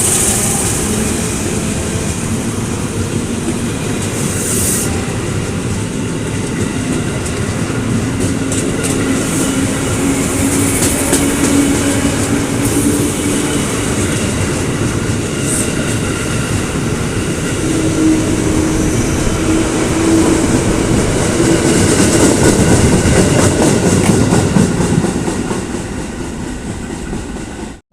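KRL commuter electric train running on the rails, with a steady rumble, wheels clacking over rail joints and a low hum that shifts slightly in pitch.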